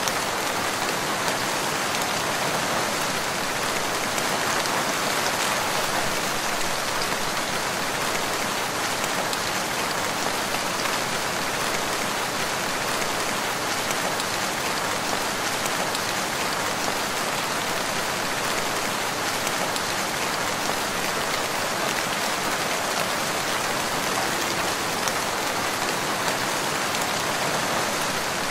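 Steady rain falling, a dense even hiss with many fine drop patters on leaves and ground.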